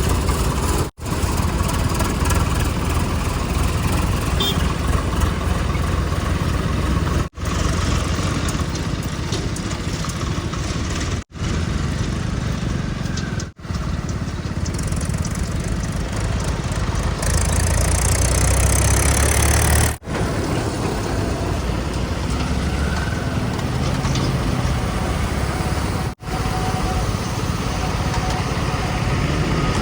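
Diesel engines of earthmoving machinery and tipper trucks running with a heavy low rumble, with a hissing stretch partway through. The sound cuts out abruptly for a moment several times.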